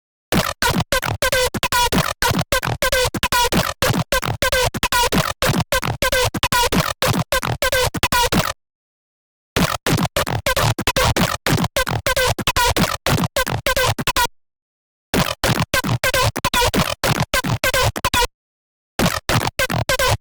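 Serum software synthesizer playing a patch built on an image-derived wavetable: rapid stuttering electronic notes, about four a second, each dropping in pitch, in phrases that cut off to silence a few times.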